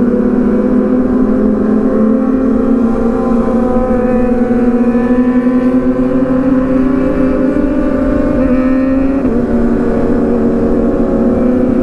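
Motorcycle engine running steadily under way, its note holding nearly level with a brief dip and recovery about nine seconds in.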